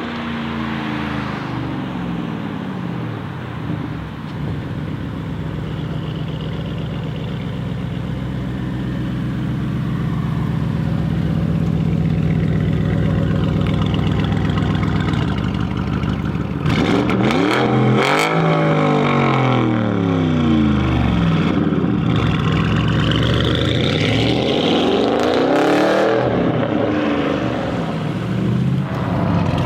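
Audi RS6 C8's twin-turbo V8, its particulate filter deleted, idling with a steady note that slowly grows louder, then revved several times from about halfway in, the pitch sweeping up and falling back each time. Sharp crackles come out of the exhaust on a couple of the revs.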